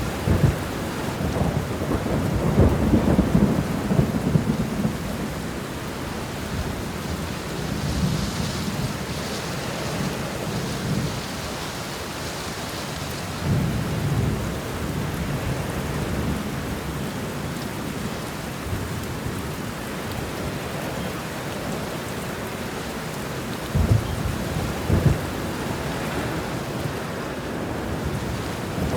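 Steady heavy rain with rolling thunder rumbling several times, the loudest swells a few seconds in, around halfway, and near the end.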